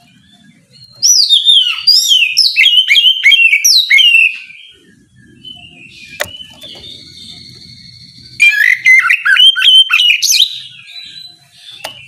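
Oriental magpie-robin (kacer) singing in two loud bursts of fast, varied, sweeping whistled notes, the first about a second in and the second near the end. This is the bird's open, challenging song, used to provoke rival males into answering.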